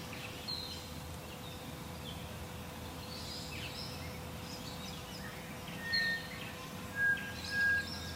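Wild birds chirping and calling in the morning, with a few short, clear whistled notes, the loudest, near the end. A steady faint hum runs underneath.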